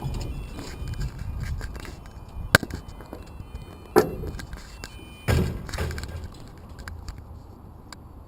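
A low, steady outdoor rumble with a few sharp knocks and clicks, the loudest about two and a half, four and five seconds in.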